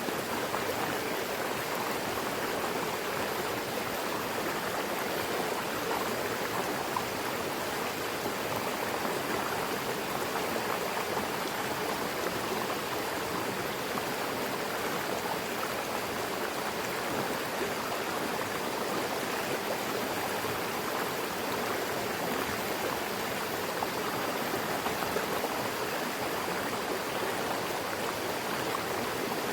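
Mountain river rushing steadily over rocks, a continuous even rush of water.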